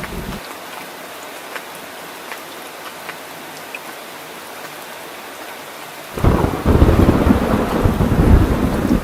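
Steady rain with scattered drops, the low rumble of thunder cutting off abruptly just after the start. About six seconds in, a loud rolling thunderclap breaks in suddenly and rumbles on to the end.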